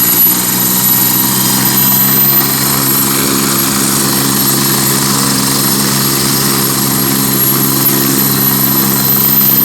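Medical-service helicopter running steadily up close, with its rotor beat and a steady high whine.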